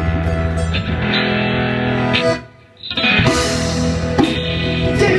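A live rock band plays a distorted electric guitar. The music drops out for about half a second midway, then the full band comes back in.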